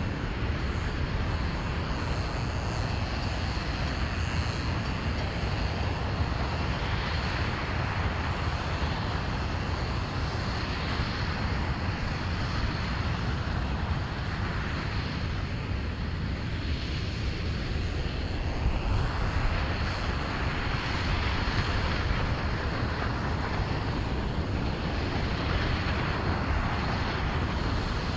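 RS-25 liquid-hydrogen/liquid-oxygen rocket engine firing on a test stand, heard as a continuous deep rumble with a hiss above it that slowly swells and fades.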